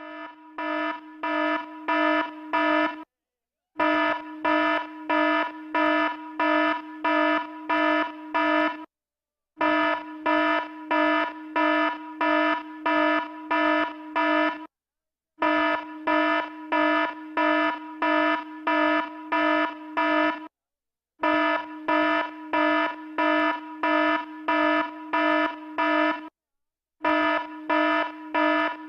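Alarm ringing in rapid pulses, about two a second, in runs of about five seconds broken by short silent gaps.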